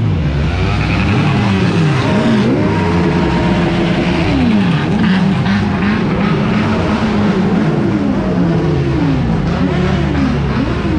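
Motorcycle engines revving up and down again and again, several at once, their pitches overlapping and sweeping up and falling back.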